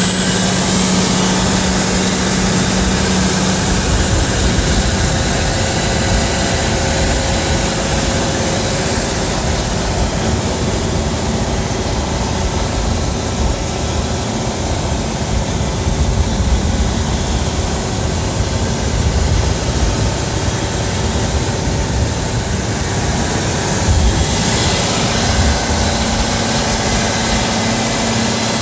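Canal passenger boat's engine running steadily under way, a loud continuous drone with a thin steady high whine over it.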